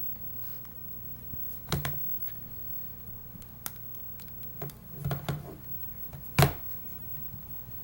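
Nexus 7 tablet's screen popping and clicking against its plastic frame as the tablet is pressed or flexed: a loose, separating screen. A few sharp clicks, a cluster of them around the middle, and the loudest pop about six seconds in.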